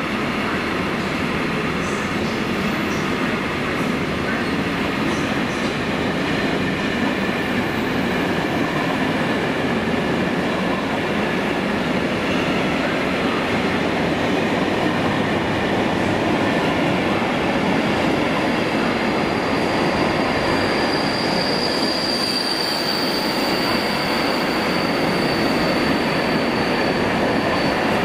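Freight wagons of a Class 66-hauled freight train rolling steadily past, wheels running on the rails. A thin high wheel squeal comes in about two-thirds of the way through and fades near the end.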